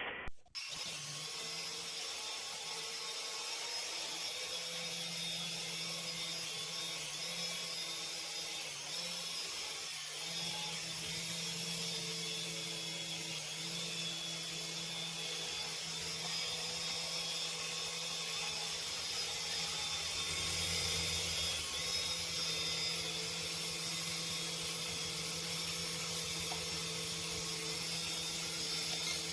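Toy RC helicopter's small electric motors and rotors running steadily in flight, a continuous high whir with a steady hum under it.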